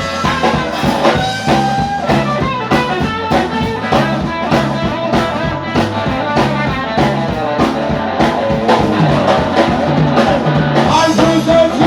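Live blues-rock band playing: drum kit keeping a steady beat under bass and electric guitar.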